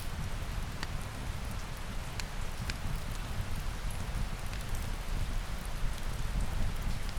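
Steady rain, with a deep low rumble underneath and scattered sharp ticks.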